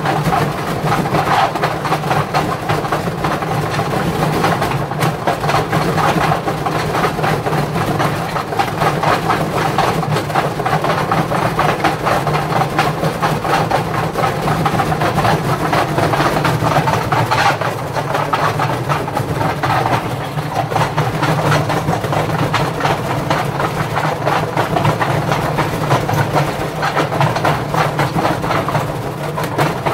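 Indesit washing machine running with heavy bricks in its drum: a loud, steady drone with constant rattling and clattering.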